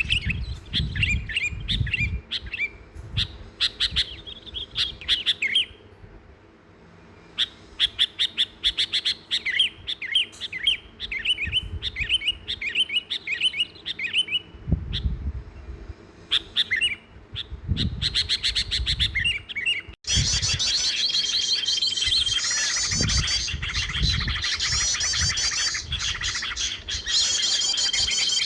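Small birds chirping in quick runs of short notes with brief gaps. About two-thirds of the way through, the sound cuts abruptly to a denser chorus of several birds that includes a long held whistle, heard twice. Low rumbles come and go underneath.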